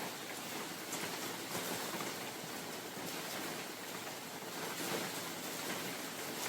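Rain falling steadily in a forest with wind: an even hiss with scattered drop taps.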